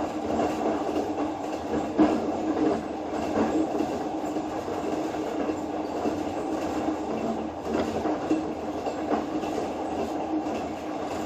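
Vietnam Railways train running along the track, a steady rumble with a few occasional knocks from the wheels.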